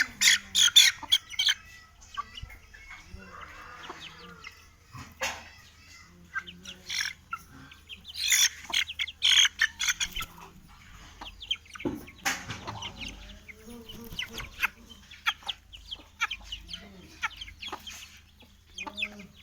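Aseel chickens and chicks clucking and peeping: many short, sharp, high calls, densest in the first second and around the middle.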